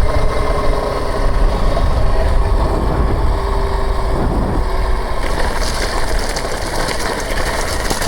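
Dirt bike being ridden, with heavy wind rumble on the microphone and a faint steady whine that stops about five seconds in.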